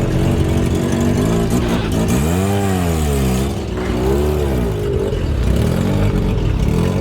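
Car engine running and revved twice in quick blips, its pitch rising and falling back each time, with steady engine noise between.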